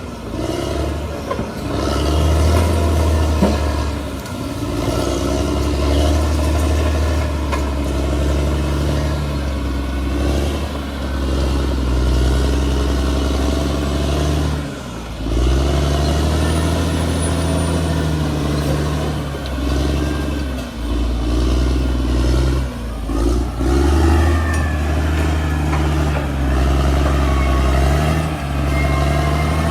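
Bulldozer's diesel engine working under load, a steady low drone that eases off briefly a few times and picks back up.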